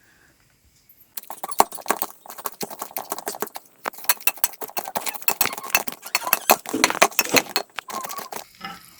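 Rapid, uneven run of hard knocks and clacks, several a second, from utensils striking dishes and pots. It starts about a second in and stops shortly before the end.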